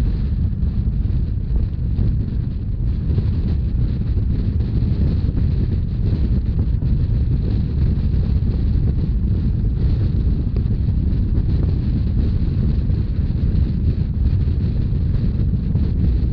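A Rhaetian Railway narrow-gauge train running at speed, a steady low rumble heavily buffeted by wind on the microphone.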